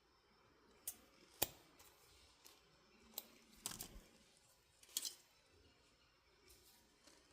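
Cutters snipping through the hair dryer's power-cord wire, trimming back the burnt, arced end: a handful of sharp snips and clicks, the loudest about a second and a half in and a quick cluster near the middle.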